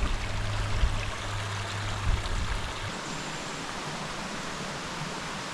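Rushing water of a rain-swollen creek and its falls, a steady hiss. A low rumble with a few dull thumps lies under it for the first three seconds.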